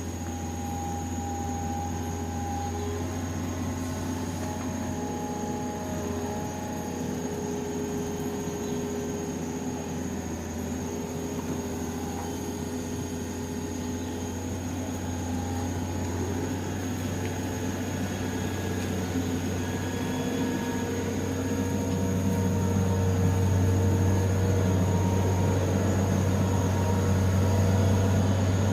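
Excavator's diesel engine running, its pitch drifting slowly as the load changes, growing louder about two-thirds of the way in.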